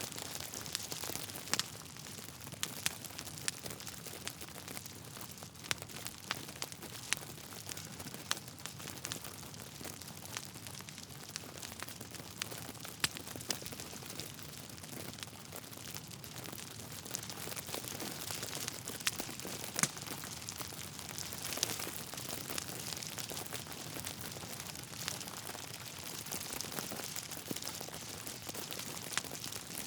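Wood fire burning in a fireplace: a steady soft hiss with irregular sharp crackles and pops from the burning logs.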